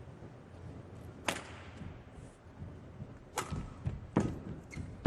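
Badminton rackets hitting the shuttlecock in a rally: three sharp hits, the second and third less than a second apart. Brief squeaks and thuds of footwork on the court come between them.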